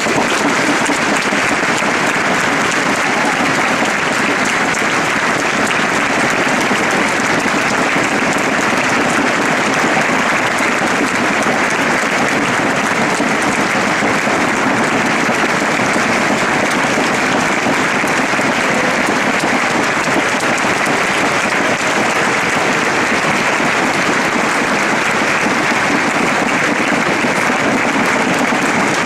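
A large concert-hall audience applauding, dense and steady clapping that breaks out suddenly as the music ends.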